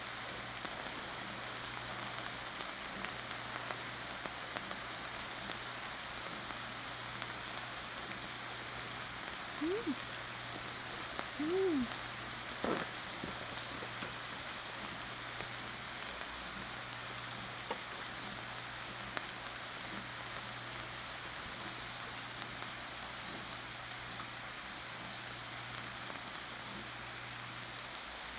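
Bulgogi beef sizzling steadily in a frying pan, with a few short squeaky sounds near the middle.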